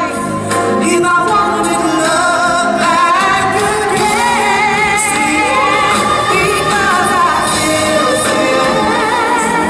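Live pop ballad singing with band accompaniment: voices hold long notes with vibrato and without clear words over the backing band.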